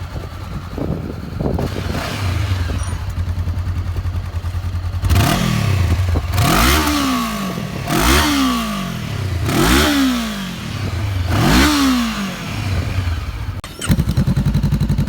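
Honda CB500X's parallel-twin engine idling, then revved five times in quick blips, its exhaust note climbing and dropping each time, before settling back to idle. Near the end the idle abruptly turns louder and harsher.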